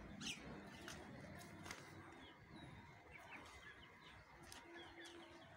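Near silence with faint, scattered chirps of small birds and a few light clicks.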